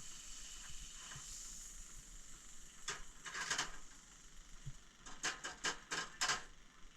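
Butter sizzling in a hot frying pan on a stove, a steady hiss, with a handful of short sharp rasps of a utensil in the pan around the middle and toward the end.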